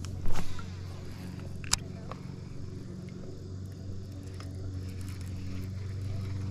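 A steady low hum like a distant engine, with one loud sharp knock about a third of a second in and a fainter click a little under two seconds in.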